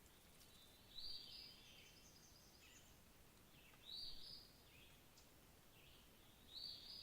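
A bird calling faintly over a quiet background hiss: three short calls, high in pitch, about three seconds apart, with a few fainter notes in between.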